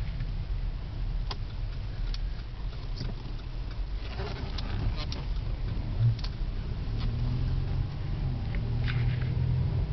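2008 Cadillac CTS with the 3.6-litre direct-injection V6 pulling away and driving, heard from inside the cabin as a steady low engine and road hum. Scattered light clicks run through it, with a brief louder bump about six seconds in.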